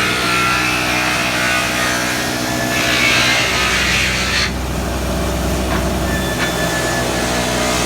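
Fimaksan sawmill machine running with a steady mechanical hum while its saws cut through timber. A louder stretch of cutting noise comes about three seconds in and ends suddenly about a second and a half later.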